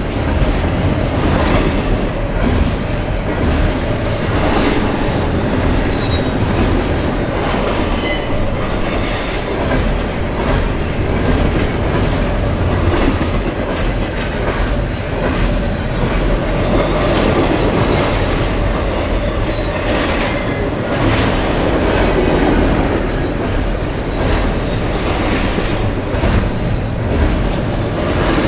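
A train's railcars rolling past, a steady loud rumble of steel wheels on rail with repeated clicks over rail joints and a few brief, faint wheel squeals.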